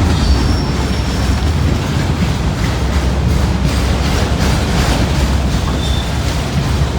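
Freight train rolling by on the track: a steady low rumble of the cars passing.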